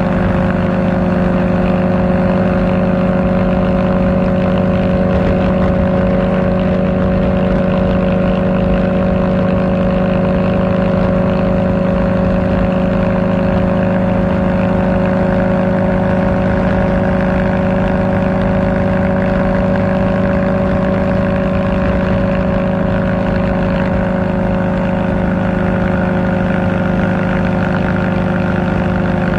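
Kawasaki Ninja ZX-4R's inline-four engine with an Akrapovic exhaust, running at a steady cruise and holding one unchanging pitch.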